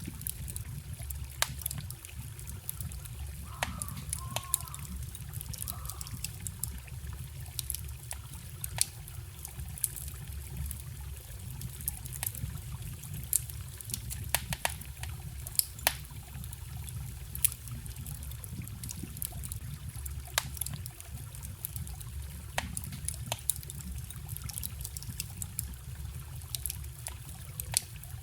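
Wood bonfire crackling with irregular sharp pops, over the steady low rush of a forest stream.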